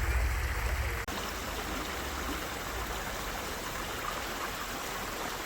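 A small river flowing steadily over stones, an even rush of water. For the first second a low rumble sits under it, ending with a sharp click.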